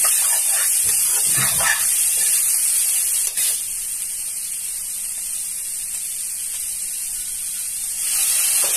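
Chopped capsicum and carrot sizzling in hot oil in a kadhai, a steady high hiss, with a metal ladle stirring and scraping the pan in the first two seconds. The sizzle drops a little about three and a half seconds in.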